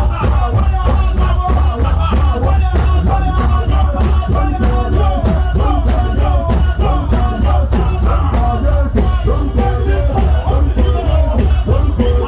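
Live band music with a heavy bass and a steady drum beat, a melody wavering over it, filling a prayer session.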